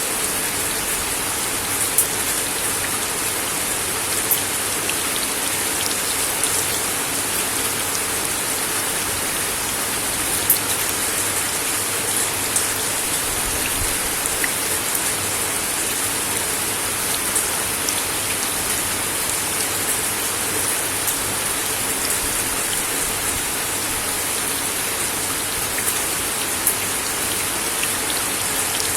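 Steady rain falling on a wooden deck, an even hiss with scattered louder drop ticks.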